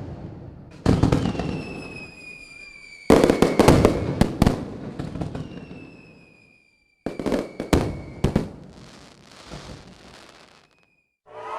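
Fireworks: sharp bangs in clusters about a second, three seconds and seven seconds in, with two long, slowly falling whistles, trailing off in a fading crackle near the end.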